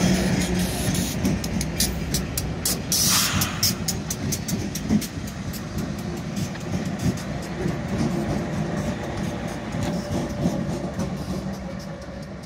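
Freight train cars rolling past, their wheels clicking over the rail joints in an uneven run of sharp clicks over a steady rumble; the sound slowly fades near the end as the train moves away.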